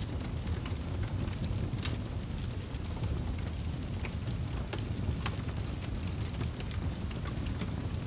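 Wood fire burning in a fireplace: a steady low rushing of the flames with irregular sharp crackles and pops from the firewood, several a second.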